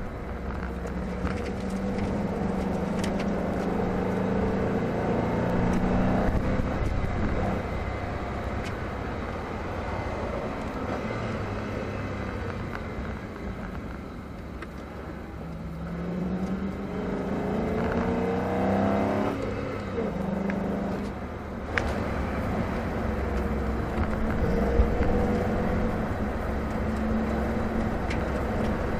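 Car engine heard from inside the cabin during a track lap, repeatedly pulling up through the revs and easing off as it shifts and brakes for corners, over steady road and wind noise. There is one sharp click about three quarters of the way through.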